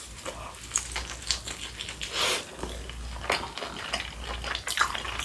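Close-miked biting and chewing of a deep-fried dumpling, its crisp fried wrapper crunching in a string of short crackles and mouth clicks, loudest about two seconds in.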